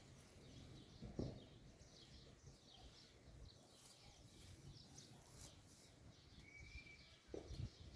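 Faint small-bird chirps scattered throughout, with a soft thump about a second in and two more near the end.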